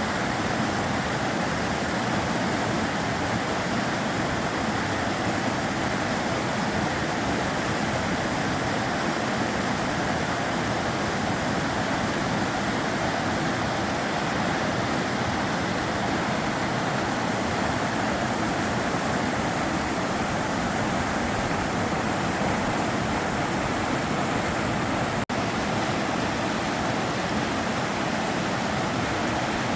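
The Sava River's water flowing and rushing in an even, steady wash of noise, with a split-second dropout near the end.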